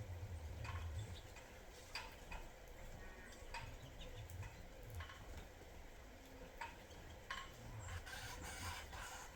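Small birds at a seed feeder giving short, faint chirps and call notes, scattered irregularly, over a low rumble.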